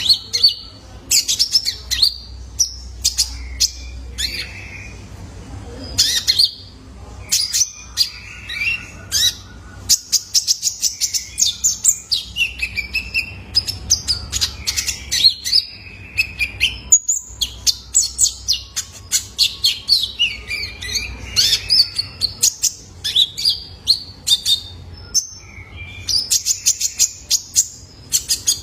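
Young male kolibri ninja sunbird singing: rapid runs of short, sharp high chirps and twittering trills, with hardly a pause.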